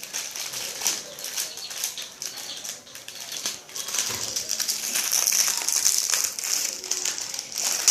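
Plastic wrapper of a packet of cream crackers crinkling and rustling as hands squeeze and tug at it: the packet is hard to open. The crinkling gets louder and more continuous about halfway through.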